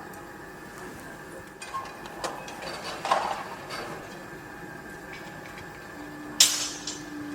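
Construction-site noise: scattered metallic clanks and knocks over a steady background hum, with one loud, sharp bang about six seconds in.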